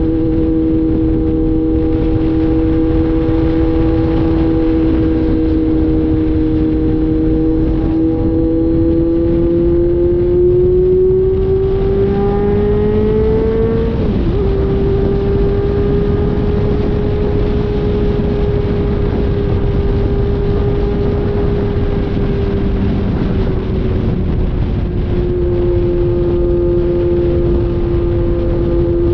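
Kawasaki Z900 inline-four with its catalytic converter deleted, running at a steady cruise. About a third of the way in the engine note climbs as the bike accelerates, dips briefly in a gear change about halfway through, then holds a little higher before easing back down near the end, over a steady rush of wind and road noise.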